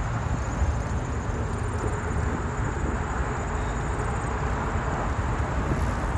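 Wind buffeting the microphone of a camera carried on a moving bicycle: a steady low rumble with an even hiss above it.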